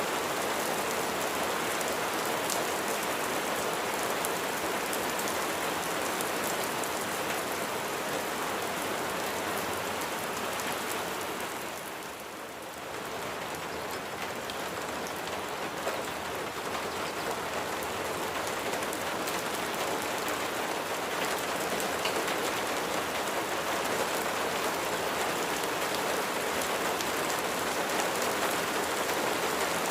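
Steady rain falling, an even hiss of many drops, with a brief dip in level about twelve seconds in.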